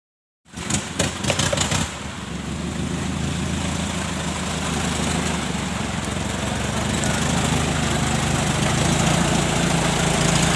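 Diesel engine of a Daihatsu Taft Hiline truck running steadily at idle, with a burst of sharp knocks and clatter in its first second or so.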